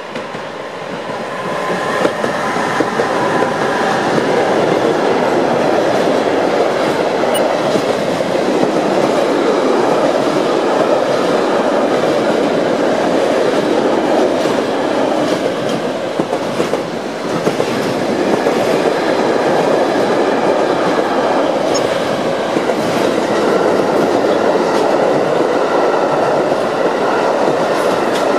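Long container freight train hauled by two Class 185 (Bombardier TRAXX) electric locomotives passing close by. The sound swells over the first couple of seconds as the locomotives arrive, then becomes a steady loud rush of the container wagons rolling past on the rails, briefly easing about two-thirds of the way through.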